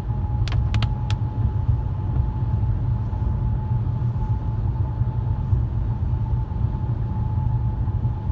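Steady low road and engine rumble heard from inside a moving car, with a faint steady whine and three quick clicks about half a second to a second in.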